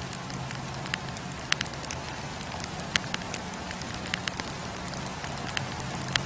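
Wood campfire burning: sharp pops and crackles of the firewood at irregular intervals over a steady hiss and low rumble of the flames.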